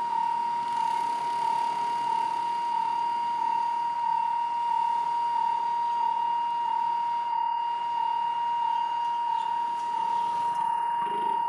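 Railway level-crossing warning signal ringing: a steady, evenly repeating electronic tone.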